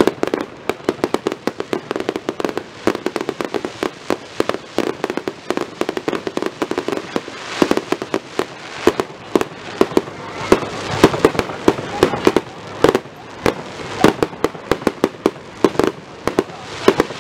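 Fireworks display: a rapid barrage of sharp bangs and crackles, several a second, from shells bursting overhead and effects fired from the ground.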